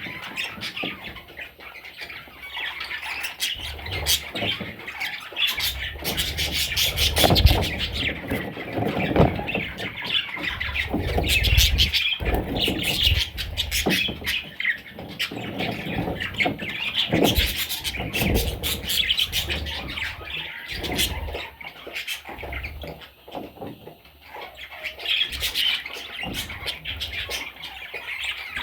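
Budgerigar chicks giving rough, raspy squawking calls without pause, with several low thumps and scuffs mixed in.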